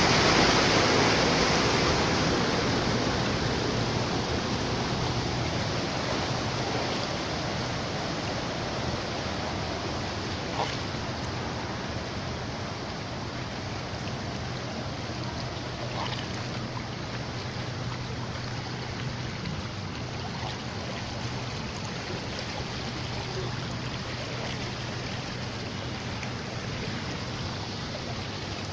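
Steady rushing water of flooded streets in heavy rain, louder in the first couple of seconds and then settling, with a faint low hum underneath.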